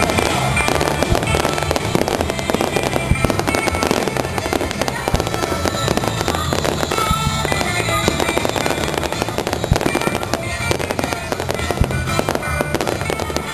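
Fireworks bursting and crackling in rapid, dense succession, over music with a steady bass line.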